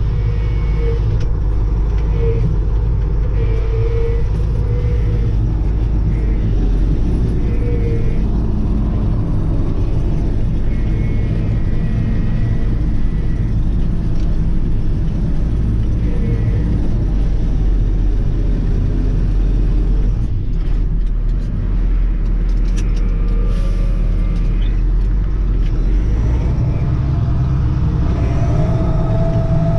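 Kirovets K-700A tractor's diesel engine running steadily, a continuous deep rumble while the tractor drives along. The engine is being run in after a rebuild with a new piston group. Short squeaks come and go over the rumble.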